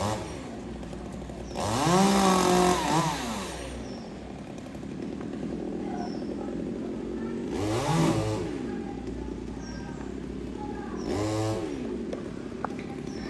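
Two-stroke chainsaw idling and revved up three times, each rev climbing in pitch and falling back to idle: a long rev of about two seconds, then two shorter ones.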